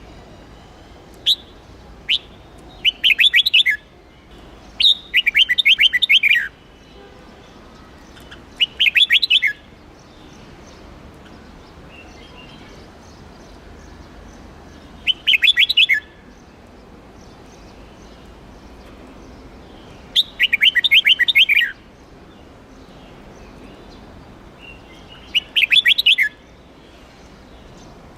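Red-whiskered bulbul singing: two short single notes, then six quick warbling phrases of rapid notes, with pauses of a few seconds between them.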